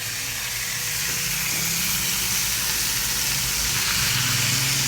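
Chicken frying in hot oil in a pan: a steady sizzle that grows slightly louder about a second in.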